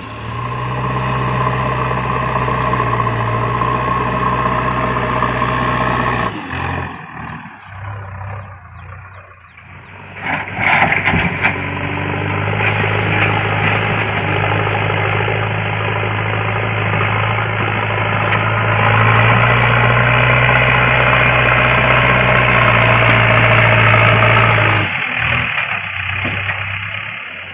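JCB backhoe loader's diesel engine running steadily. It falls away abruptly about six seconds in, comes back after a short loud burst of noise around ten seconds, and runs louder in the last stretch before dropping away near the end.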